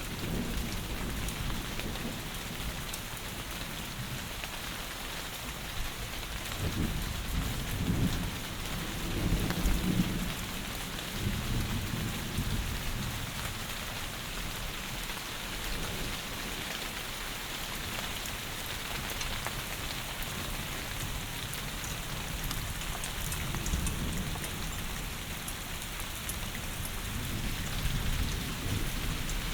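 Heavy rain falling, a steady dense hiss. A low rumble of thunder rolls in about a quarter of the way through and fades before the middle.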